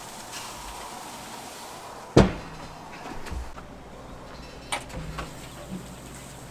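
Lid of a Char-Griller charcoal grill shut once, a loud bang with a short ring about two seconds in, followed by a few light clicks near the end.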